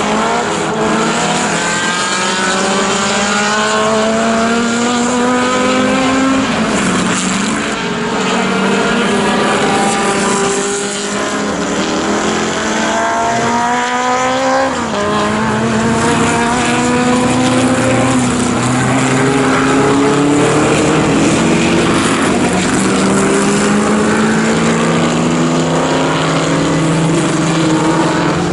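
Historic sports racing car engine at full throttle, its pitch climbing steadily through each gear, with sharp drops at gear changes about six and fourteen seconds in.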